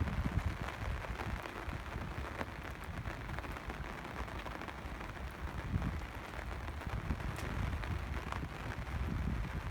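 Steady rain falling, an even hiss of drops with scattered small drip clicks, over a low uneven rumble.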